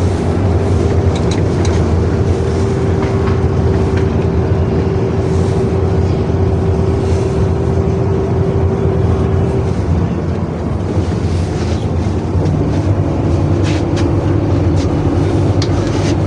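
Inside the cabin of a moving PAZ Citymax 9 city bus: steady engine drone and road noise. A whining tone ends about ten seconds in, and a lower one comes in a couple of seconds later.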